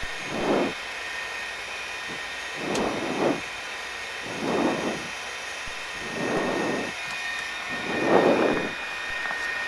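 Helicopter intercom audio: a steady high turbine and gearbox whine runs under soft rushes of breath on an open (hot) headset microphone, coming about every second and a half to two seconds.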